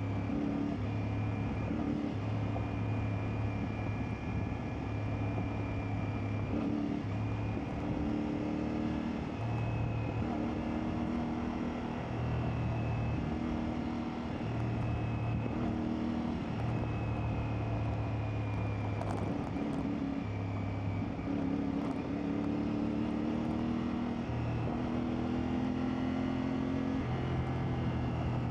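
CFMoto 450MT's parallel-twin engine running under way off-road, its pitch repeatedly stepping up and easing off with throttle and gear changes.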